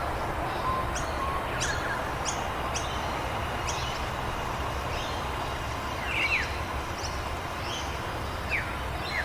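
Birds chirping: short, sharp high calls repeated every half second to a second, with a couple of louder downward-sweeping calls about six seconds in, over a steady low background noise.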